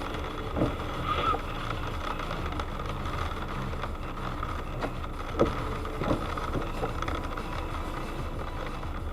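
Steady engine and road rumble of a moving car, with a few light knocks.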